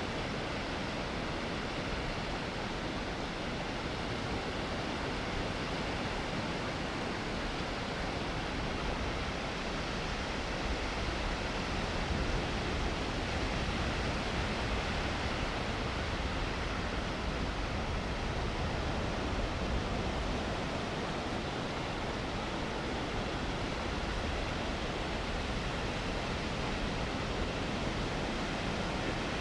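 Steady rush of ocean surf, swelling slightly louder through the middle.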